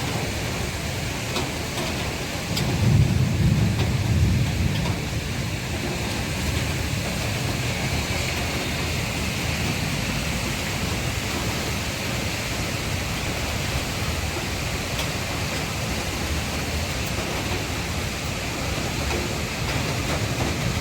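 Heavy rain falling steadily in a thunderstorm, with a low rumble of thunder swelling up about three seconds in and fading out a couple of seconds later.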